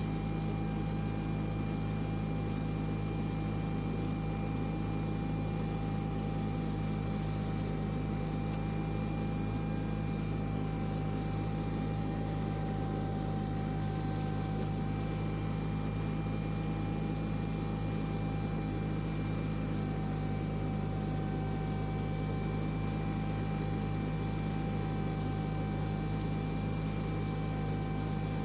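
John Deere 318 garden tractor's two-cylinder engine running steadily at work speed, its mower deck blades spinning as they mulch leaves. It makes an even drone with a thin steady whine over it.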